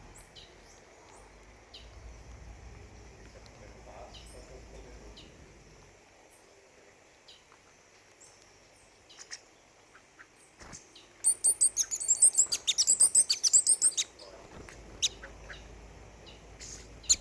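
Small birds calling: scattered short, high chirps, then a loud, fast run of very high notes lasting about three seconds in the latter half.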